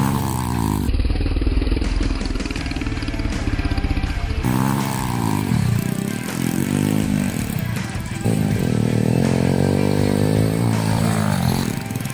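Honda Wave 100 dirt-bike conversion's small single-cylinder four-stroke engine revving, its pitch rising and falling again and again, with abrupt changes in the sound about 1, 4.5 and 8 seconds in.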